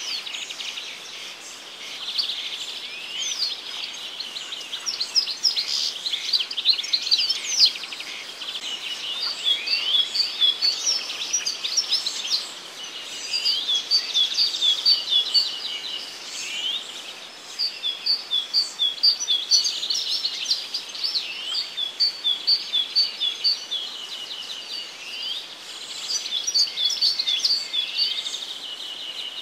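Songbirds singing: a steady chorus of high chirps, quick falling whistles and runs of rapidly repeated notes, with no break.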